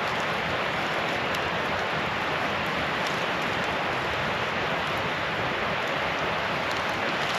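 Campfire burning with a steady hiss and a few faint crackles.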